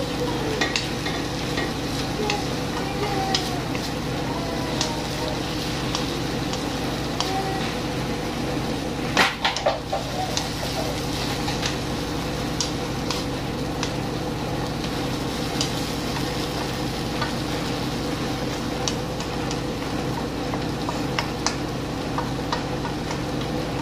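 Chicken and tomato pieces sizzling in a frying pan while a wooden spatula stirs them, with scattered light clicks of the spatula against the pan and a louder cluster of knocks about nine seconds in, over a steady low hum.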